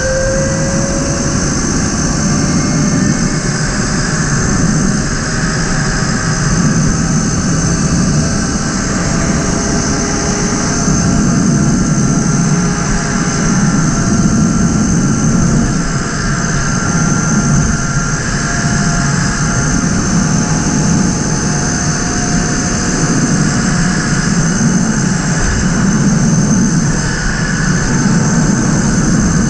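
Tuttio electric dirt bike riding at speed: wind rushing over the microphone, with the electric motor's whine shifting in pitch as the speed changes.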